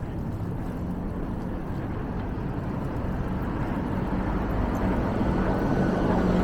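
Motor vehicle approaching, its steady engine and road noise growing louder.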